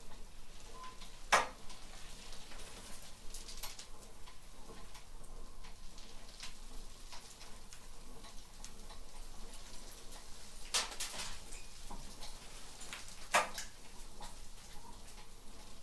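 Faint ticking with three sharp metallic clicks, about a second in, near eleven seconds and near thirteen seconds: metal knocking from a car trailer being lifted on a crane hoist.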